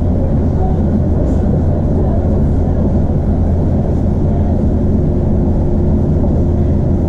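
Iarnród Éireann Class 2600 diesel multiple unit running along the line: a steady low rumble of engine and wheels on the track, with a faint steady hum coming in about five seconds in.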